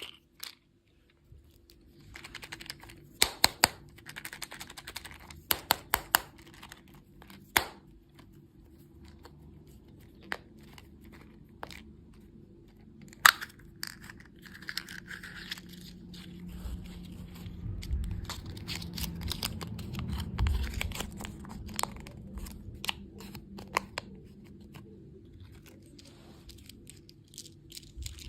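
Close-miked eating sounds: scattered sharp crunches and crackles as sweets are bitten, then several seconds of low, muffled chewing in the second half.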